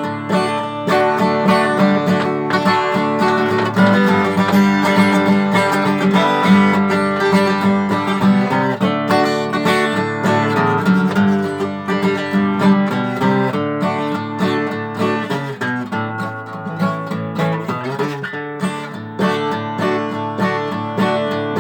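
Acoustic guitar strumming chords in an instrumental break between sung verses of a country-style song.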